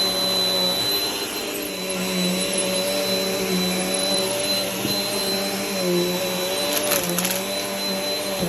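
Vacuum cleaner running steadily, its motor whine dipping and rising slightly as it is worked over the floor, with a few brief clicks about seven seconds in.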